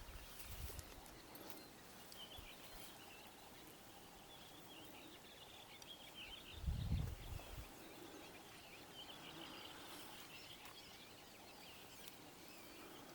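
Faint, continuous chirping of distant birds over a quiet outdoor background, with one brief low rumble on the microphone about seven seconds in.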